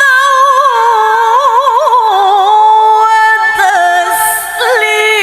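A woman's solo voice reciting the Quran in melodic tajwid style. She holds one long ornamented note with quick pitch turns, which steps down in pitch about two seconds in and breaks briefly near the end.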